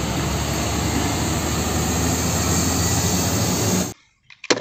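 Fuel tanker truck driving along a road: a steady heavy engine running under road and traffic noise, which cuts off abruptly about four seconds in. A short sharp click near the end.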